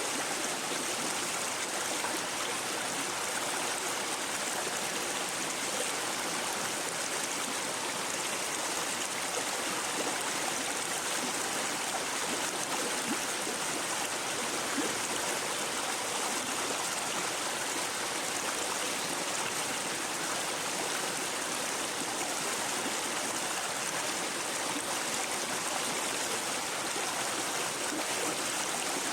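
A shallow brook babbling and gurgling over stones, a steady, unbroken water sound.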